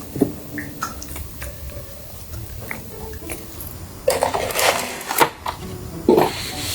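Close-miked eating sounds: wet chewing with scattered small clicks, louder about four seconds in and again shortly before the end.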